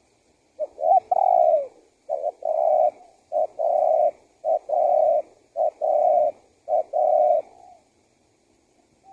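Spotted dove (tekukur) cooing: six phrases in a row, each a short coo followed by a longer, held coo, in the male's repeated lure call.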